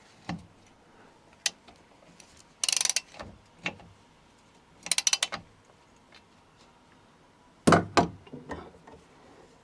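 A hand ratchet wrench clicking in two short quick runs while a bolt is driven in, among scattered sharp metallic knocks of tools and parts, the loudest pair near the end.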